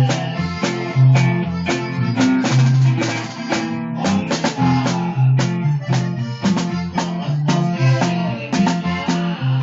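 Norteño band playing an instrumental passage: a drum kit keeps a steady beat over bass notes and guitar.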